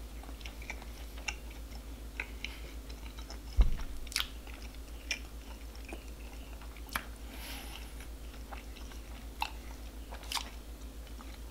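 Close-miked chewing of a hot dog in a soft bun: irregular soft clicks and mouth noises scattered through, over a steady low hum. A single low thump about three and a half seconds in.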